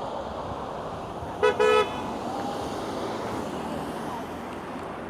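A passing car's horn toots twice in quick succession, a brief tap then a slightly longer honk, over steady traffic noise: a driver honking in support of the picket line.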